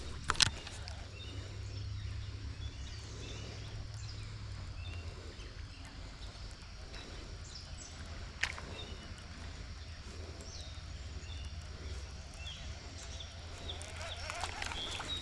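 Outdoor creekside ambience: a steady low rumble with faint, scattered bird chirps, and two sharp clicks, one near the start and one about halfway through.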